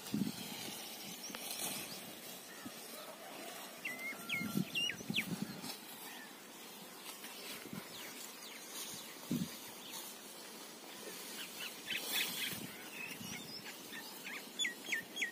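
Outdoor ambience with scattered short bird chirps: a few about four seconds in and a quicker series near the end. Occasional low thumps are heard as well.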